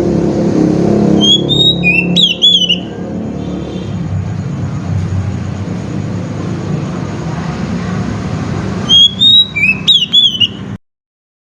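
Oriental magpie-robin (kacer) singing two short phrases of rising and falling whistled notes, one about a second in and one near the end, over a steady low rumble. The sound cuts off suddenly near the end.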